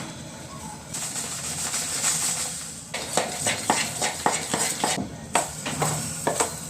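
Chilla batter of egg and gram flour being mixed with a spoon in a bowl: a steady hiss for about two seconds, then quick, irregular clicks of the spoon against the bowl.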